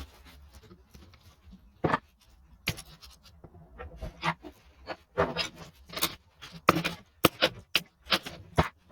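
Irregular clicks, knocks and scrapes of hand work on small-motorcycle engine parts, coming thicker and louder in the second half.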